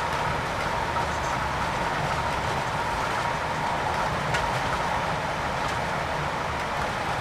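Scania K410 IB coach under way: steady low engine rumble and road noise, with a faint steady high whine and a few light clicks.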